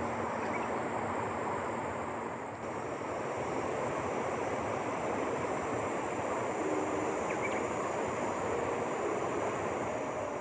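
Steady rushing noise, even and unbroken, with a faint high steady hiss above it and a few brief faint tones near the end.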